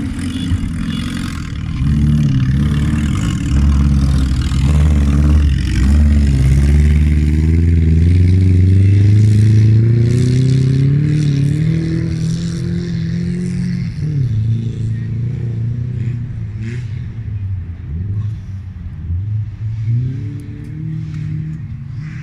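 A wreck-race car's engine revving hard, its pitch climbing steadily for about ten seconds, then dropping suddenly and running on at lower, uneven revs.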